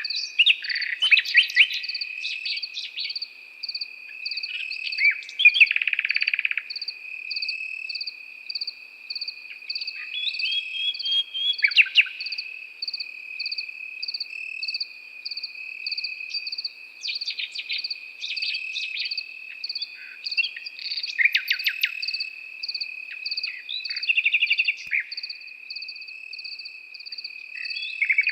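Nightingale singing in separate short phrases of rapid notes and trills, about seven phrases with pauses between them, over crickets: one trilling in an unbroken steady tone and another chirping higher in a regular pulsing rhythm.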